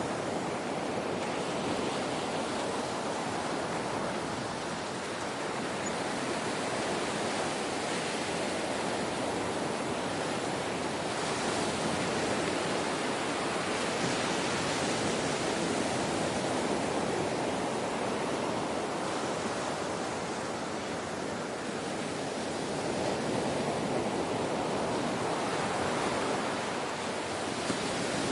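Ocean surf washing continuously, a steady hiss of breaking waves that swells and eases slowly, rising a little about twelve seconds in and again near the end.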